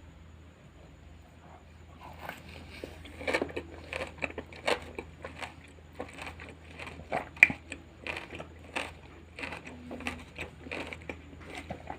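Crunching of crisp raw salad vegetables being bitten and chewed close to the microphone: a quick run of sharp, irregular crunches starting about two seconds in.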